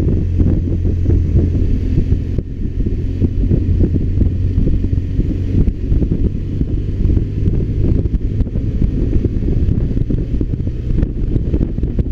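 BMW R1200RT's boxer-twin engine running steadily under way, mixed with wind rumble on the microphone.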